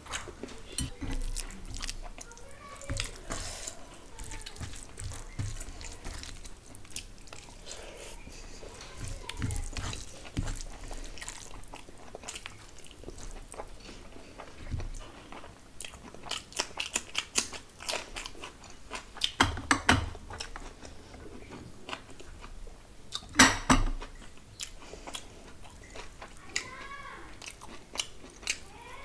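Close-miked eating by hand: chewing, biting and crunching, with fingers mixing rice and curry gravy between mouthfuls. Sharper, louder crunches and smacks cluster about two-thirds of the way through.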